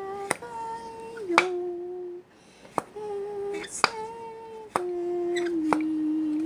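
A voice humming a slow wordless tune in held, steady notes that step up and down in pitch, with sharp clicks between some notes and a brief pause a little past two seconds in.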